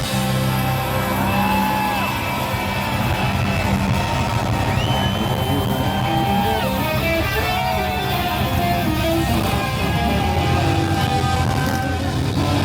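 Live rock music with no singing: an electric guitar holds long notes that bend up in pitch, over a steady low bass.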